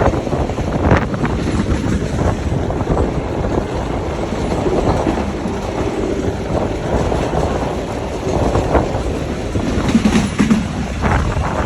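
Passenger train running, heard from aboard: a steady rumble with occasional knocks from the wheels and cars, and wind buffeting the microphone.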